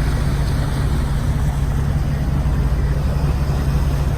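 Passenger ferry's engine running steadily: a constant low drone with an even rushing noise over it.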